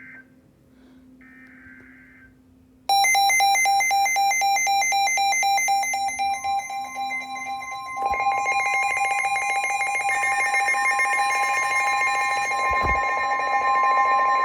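NOAA Weather Radio alert sequence opening a warning. Weather-radio SAME data bursts buzz briefly near the start. About three seconds in, a receiver's loud pulsing electronic alarm sounds, and about six seconds in the broadcast's steady 1050 Hz warning alert tone joins it, holding to the end.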